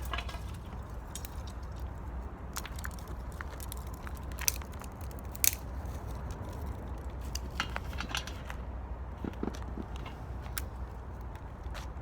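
Small wood fire in an 18-litre square metal can crackling, with irregular sharp pops over a steady low rumble.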